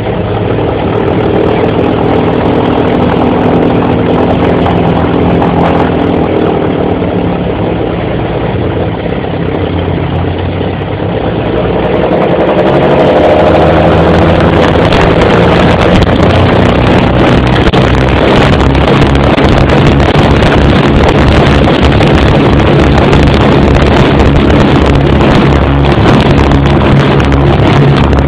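The Dragon Rapide's two six-cylinder inverted inline piston engines running at low power, then opened up about halfway through to a louder, fuller note and held there, typical of the throttles going forward for the takeoff run.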